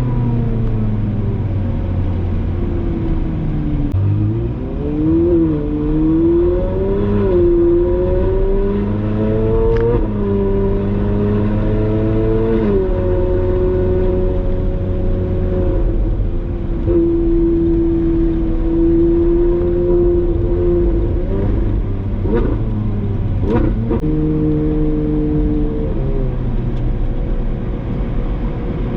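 Ferrari 458 Spider's 4.5-litre V8 through a Brilliant aftermarket exhaust, under way in town driving. Its pitch falls at first, then climbs in steps with several upshifts in the first dozen seconds, holds steady at a cruise, and shifts briefly again a little past the middle.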